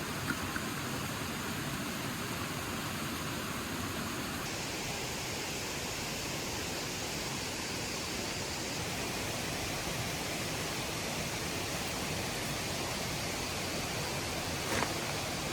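Steady hissing rush of noise, like running water or wind. Its tone changes about four seconds in, and a couple of faint clicks come near the end.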